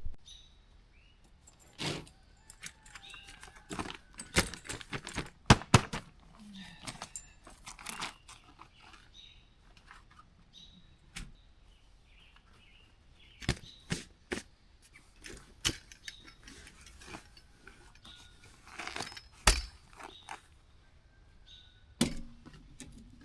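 Scattered sharp clinks, taps and knocks of eating utensils and dishes being handled during a meal, with some crunching, irregular and spaced out with short gaps.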